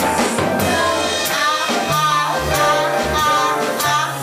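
Live jazz band playing: a bass line of held notes under keyboards, with a singing voice and drum kit cymbal strokes keeping a steady beat.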